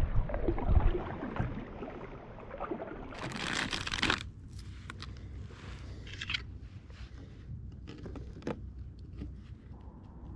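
Rustling and scraping handling sounds, with a brief louder hiss about three seconds in and scattered light clicks after it.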